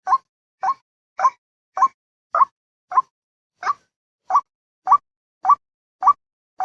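Recorded white-breasted waterhen (ruwak-ruwak) call looped as a bird-catching lure: a short, loud note repeated about every 0.6 s, each note hooking upward in pitch, with silence between the notes.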